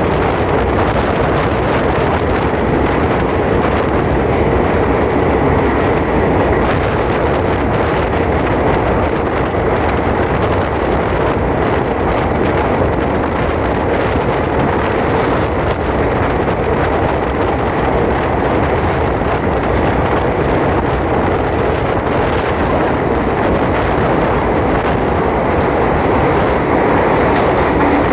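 A passenger train running at speed, with steady loud rumble and rushing noise of the wheels on the track.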